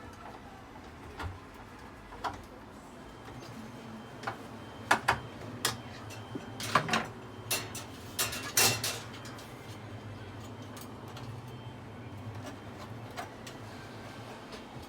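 Scattered clicks and knocks of hands working on range hood parts, coming in a quick cluster about halfway through, over a faint low hum.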